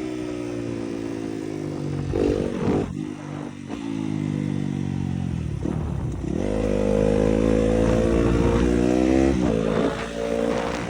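Yamaha 250 YZF motorcycle engine running hard, its pitch changing all the time. The note sinks at first, jumps up and down with a few quick revs after about two seconds, then climbs from about six seconds in and holds higher, with a brief dip near the end.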